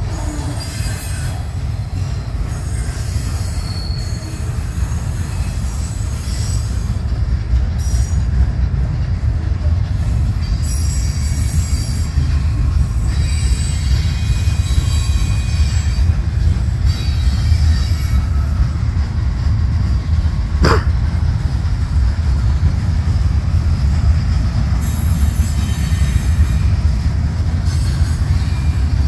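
Freight cars of a mixed freight train rolling past: a steady low rumble of steel wheels on rail, with high-pitched wheel squeal coming and going, and one sharp knock about two-thirds of the way through.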